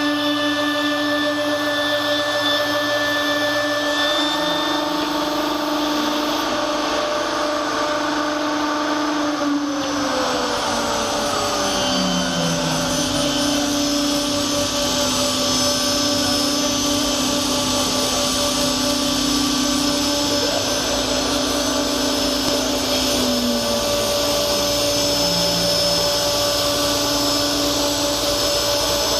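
J-type automatic edge banding machine running, its motors giving a steady whine that slides down in pitch about ten seconds in and again near the end.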